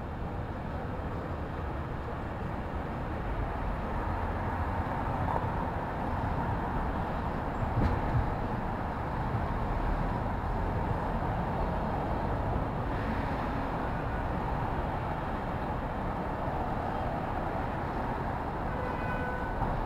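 Steady city street traffic noise: a continuous rumble of passing vehicles, with a brief louder swell about eight seconds in.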